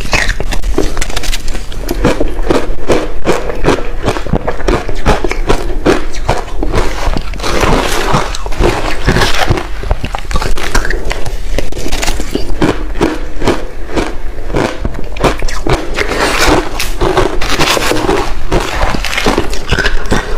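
Close-miked chewing of crushed ice with passion fruit: rapid, continuous crunching and crackling of ice between the teeth.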